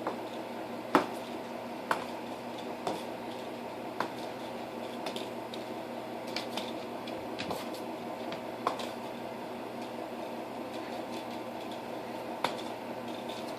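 Scattered knocks and thumps of cats pouncing and landing while playing with a teaser wand, the loudest about a second in, over a steady low hum.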